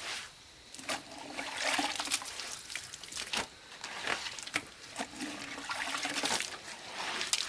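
Water splashing and trickling in irregular rushes, with a few sharp knocks.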